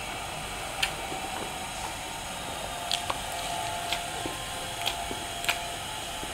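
Close-up wet chewing and mouth sounds while eating a curry-coated chicken leg piece by hand, with about six sharp, squishy mouth clicks spread through.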